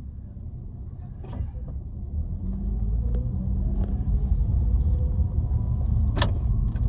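Car engine and road rumble heard from inside the cabin as the car pulls away and gathers speed, getting louder about two seconds in. A few sharp clicks, the loudest near the end.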